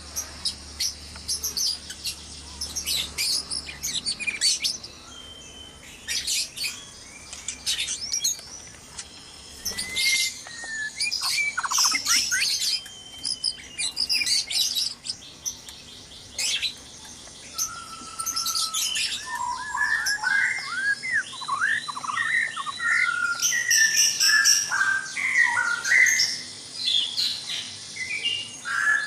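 White-rumped shamas chirping and singing: many quick high chirps in the first half, then lower whistled phrases and fast trills from about two-thirds in.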